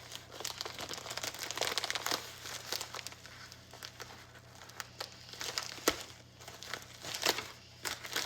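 Packaging being handled and opened: irregular crinkling and rustling, with a sharper snap about six seconds in.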